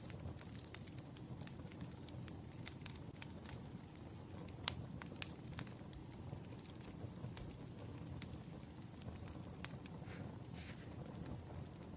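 Wood fire burning: a steady low rumble with irregular sharp crackles and pops, the loudest pop about five seconds in.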